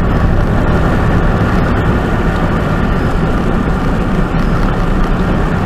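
Steady low engine rumble and road noise inside a truck cab while driving.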